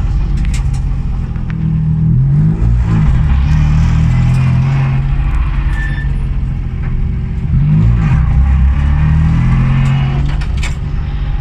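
Ford Fiesta rally car's engine running loud and steady under way, its pitch wavering twice, about three seconds in and about eight seconds in. A few sharp clicks come near the end.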